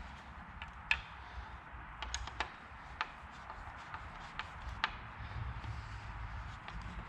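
Irregular light clicks and taps from hand work on a rake, fitting and bolting on a new plastic rake head, over a low rumble.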